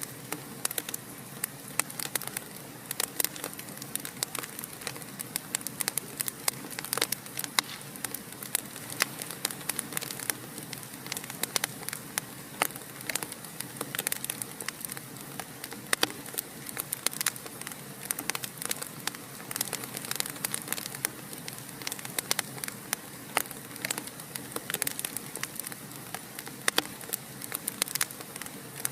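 Wood fire in a fireplace crackling, with frequent sharp irregular pops and snaps over a steady soft hiss.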